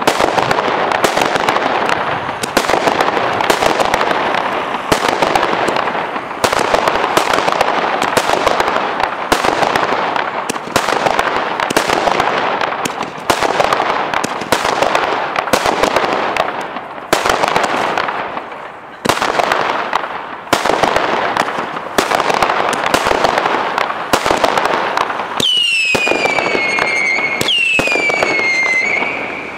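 Aerial fireworks going off: a rapid, irregular string of bangs over continuous crackling. Near the end, two whistles each fall in pitch.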